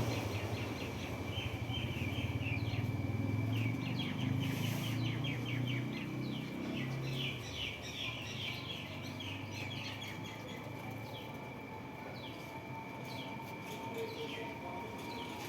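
A flock of small birds chirping, with many quick short chirps that come in busy clusters. A low hum sits underneath for about the first seven seconds, and a faint steady high whine runs throughout.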